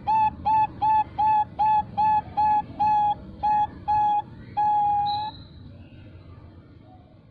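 Female Bangkok-type zebra dove (perkutut) cooing: a quick run of short, even notes, between two and three a second, ending about five seconds in on one long held note, the 'long ending' prized in this line of birds.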